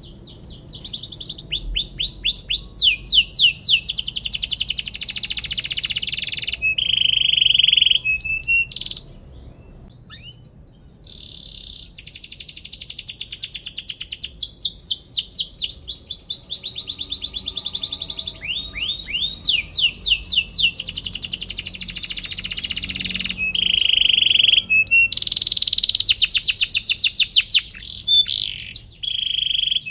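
Domestic canary singing a long song of fast repeated trills and chirps, switching between trill types every second or two, with a brief pause about a third of the way in.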